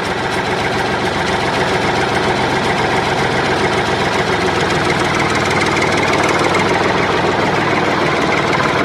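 A tractor engine running steadily at idle, a loud, even drone with a deep hum.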